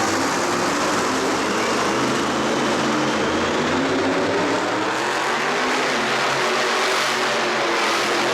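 Loud vehicle engine running steadily, an even, unbroken engine sound over a dense hiss of arena noise.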